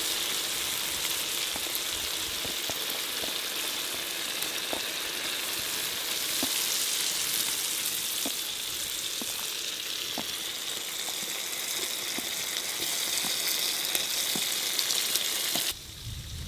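Spiced onion and tomato masala sizzling in a wok, with small pops scattered through a steady frying hiss as tomato slices are laid into it. The sizzle cuts off suddenly near the end.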